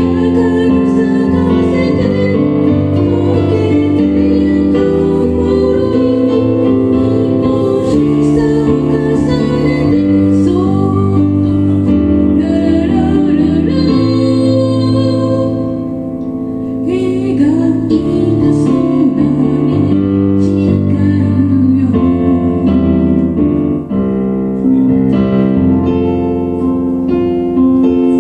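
A band playing live, led by electric keyboard or piano chords, with a woman singing the melody. The music briefly drops in level about 16 seconds in, then comes back.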